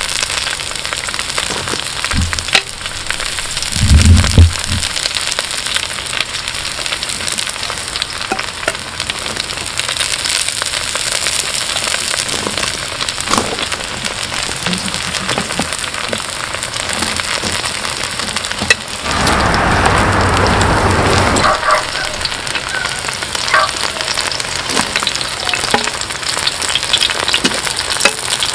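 Green onions, batter and seafood sizzling in oil on a cast-iron pot-lid griddle over a wood fire, with scattered sharp crackles. A short low thump comes about four seconds in, and a louder rush of noise lasts a couple of seconds about two-thirds of the way through.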